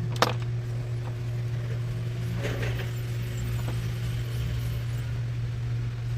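Metal clamp being fitted by hand onto a washing-machine brake shoe: a sharp metallic click about a quarter second in, then a short rattle of small clicks about two and a half seconds in. A steady low hum runs underneath.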